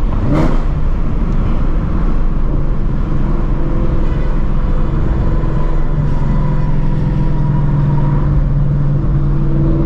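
Straight-piped Ford Shelby GT350's 5.2-litre flat-plane-crank V8, fitted with long-tube headers, running steadily at low revs, heard from inside the car. The low exhaust drone settles into a steadier, stronger hum from about six seconds in, with a brief sharp sound about half a second in.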